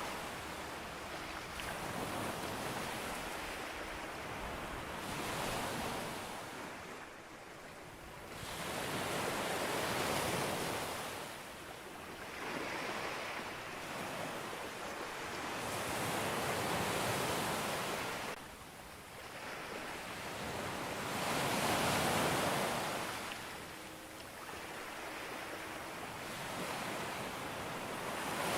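Ocean waves breaking and washing up on a beach, a swell of surf rising and falling roughly every five to six seconds.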